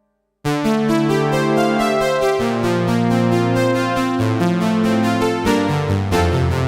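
Dave Smith Instruments Tempest synthesizer playing a chord patch through Roland DEP-5 reverb. It comes in suddenly about half a second in after a brief silence, and the chords change every second or so.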